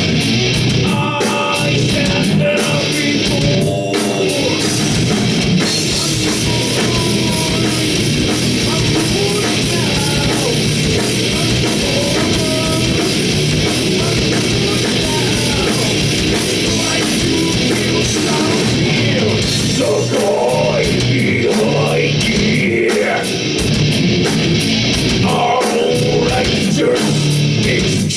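A live heavy metal band playing: distorted electric guitars, a drum kit with rapid, even cymbal or drum strokes, and singing.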